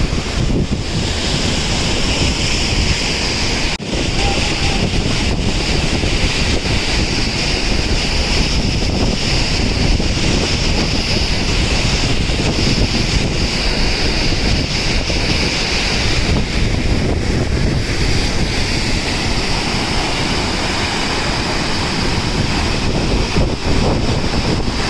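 Athirappilly waterfall's steady, loud rush of falling water.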